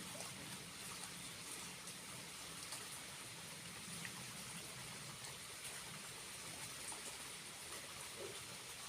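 Small waterfall running steadily: a faint, even rush and trickle of falling water.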